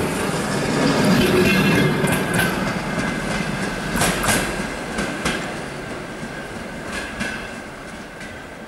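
Passenger train coaches rolling away on the track, wheels clicking over rail joints in quick pairs, with a thin steady whine from the wheels. The sound fades as the end of the train recedes.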